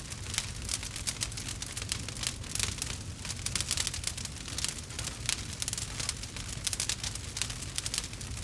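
Wood fire crackling in a fireplace: a steady, dense stream of small pops and snaps over a low rumble.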